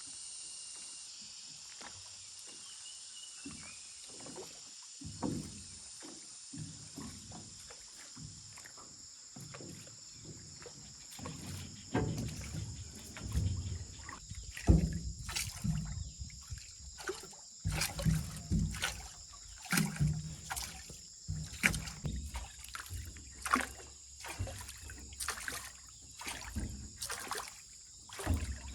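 A small boat on a lake being paddled or worked, with watery splashes and knocks against the hull. After a quiet start they come irregularly, roughly one or two a second. Insects drone steadily and high-pitched throughout.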